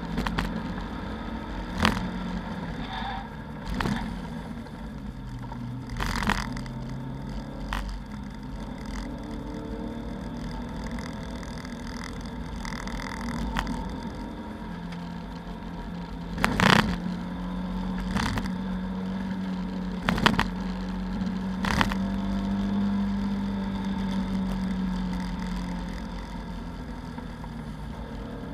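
Lada 2109 race car's engine heard from inside the cabin, running at speed on a circuit, its note drifting up for several seconds in the second half and then dropping back. Sharp clunks and rattles break in now and then, the loudest about two-thirds of the way through.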